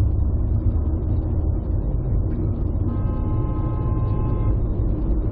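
Steady low rumble of a moving car's road and engine noise heard from inside the cabin. About three seconds in, a steady pitched tone sounds for about a second and a half.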